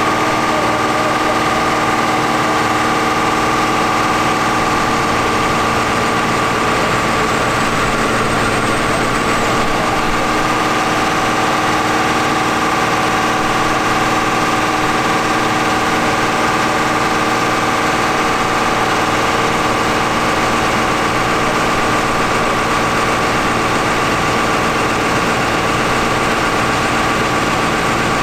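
John Deere 7800 tractor's six-cylinder diesel engine running on a PTO dynamometer test, held at steady high revs after revving up. A steady whine sits over the engine note.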